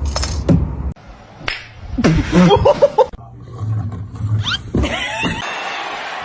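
Cats meowing and yowling in a quick run of short pitched calls, in several short snippets that cut abruptly from one to the next.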